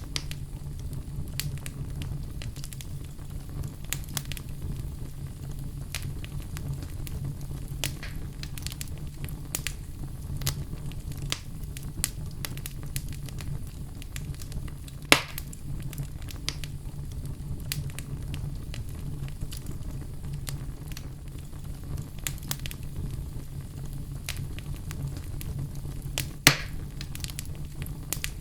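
Wood fire in a fireplace crackling, with frequent small snaps over a steady low rumble. Two louder sharp pops come about halfway through and near the end.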